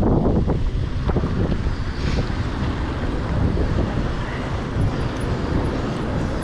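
Wind buffeting a chest-mounted action camera's microphone while cycling, a steady low rumble with a few brief knocks in the first second or so.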